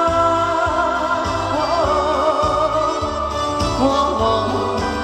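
Live band music at the close of a trot song: a wavering, vibrato-laden melody line over a steady bass beat.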